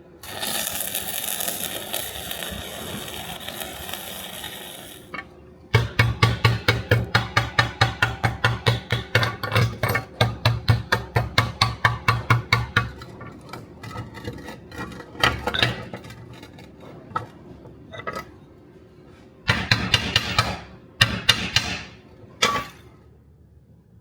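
Hammer blows on metal at an anvil, a fast even run of about four strikes a second for some seven seconds, thinning to scattered blows. Before them a steady hiss for about five seconds, and near the end a few short bursts of hiss.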